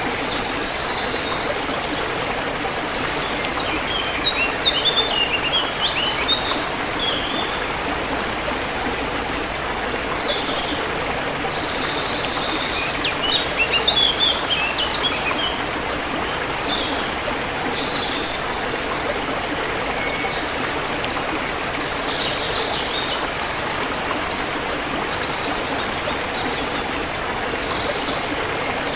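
Forest river water flowing steadily, with songbirds chirping over it in short bursts of quick high notes, busiest about five seconds in and again around fourteen seconds.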